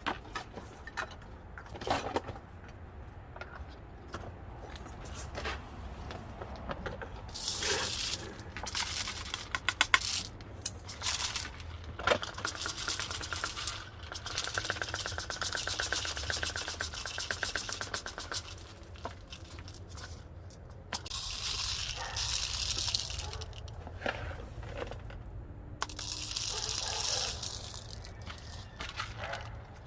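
Dry bird food poured into a plastic bottle feeder: small grains rattling and hissing against the plastic in several pours, with scattered clicks between them.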